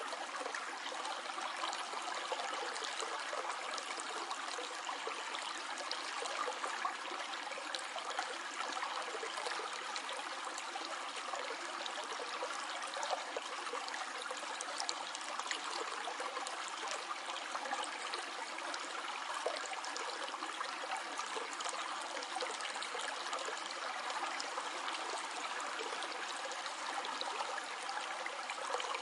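Stream flowing and trickling steadily, an even water rush with a fine crackle of small splashes.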